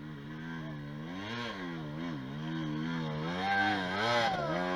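Off-road trail motorcycle engine climbing a steep hill. The revs rise and dip repeatedly as the throttle is worked, and it grows louder over the second half.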